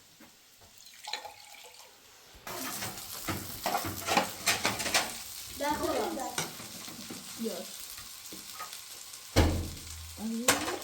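Food sizzling in a pan, with clicks and scrapes of a utensil stirring it. The sizzle starts abruptly about two and a half seconds in. Brief voices are heard, and there is a single low thump near the end.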